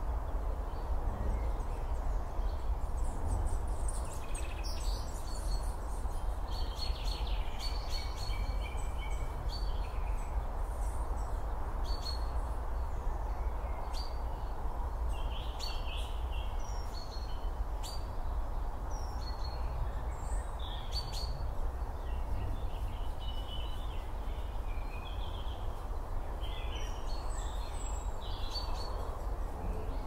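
Small woodland birds chirping and calling on and off, over a steady low rumble and hiss of outdoor background noise.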